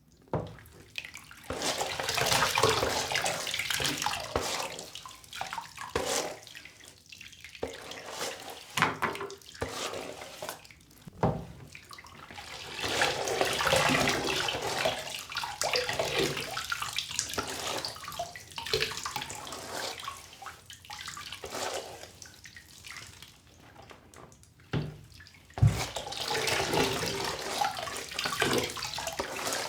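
Tap water running and splashing in a sink as a doll's hair is rinsed, in uneven spells with short lulls, and a few sharp knocks.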